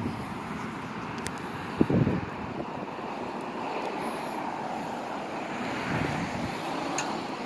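Steady outdoor wind noise on the microphone, with a single low thump about two seconds in.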